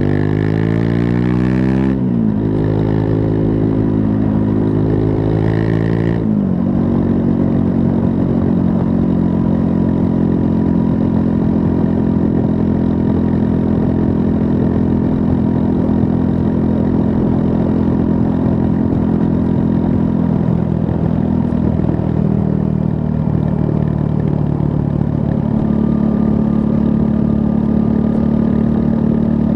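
Triumph Scrambler 400 X's 398 cc single-cylinder engine running under way on a ride. The revs shift twice in the first six seconds, then the engine holds a steady pitch with a small change about two-thirds of the way through.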